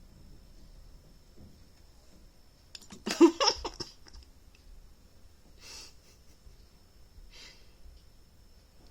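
A short, loud squawking call made of a few quick pulses about three seconds in, followed by two soft breathy hisses.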